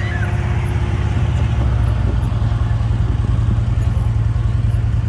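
An engine running steadily, a low, even hum with no change in speed.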